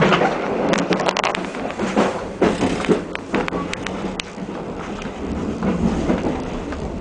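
Passenger train in motion heard from inside a sleeper carriage: a steady running noise with scattered clicks and rattles.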